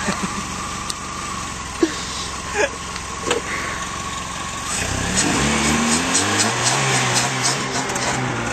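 1997 Chevrolet Cavalier engine running through a homemade snorkel cold-air intake pipe, a steady hum with a thin whine over it. About five seconds in the engine note changes, rising briefly and then settling into a lower steady hum. A few short squeaks come before that.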